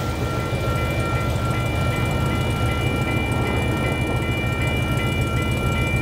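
Union Pacific freight train rolling past with a steady low rumble. Several steady high-pitched tones ring over it, with one tone pulsing on and off about twice a second.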